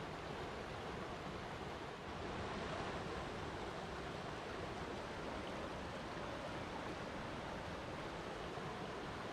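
Steady rush of flowing water, an even wash of sound with no distinct splashes or breaks.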